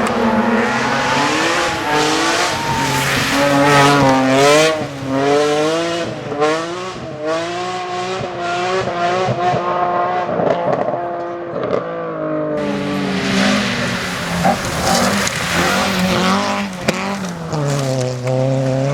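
Rally car engine driven hard on a stage, the revs rising and falling again and again as the driver shifts and lifts through the corners, quickest in the first few seconds.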